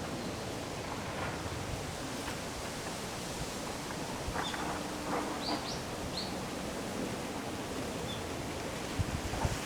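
Wind rushing steadily through trees, with a few short, high chirps from a small bird in the middle and some low buffeting of wind on the microphone near the end.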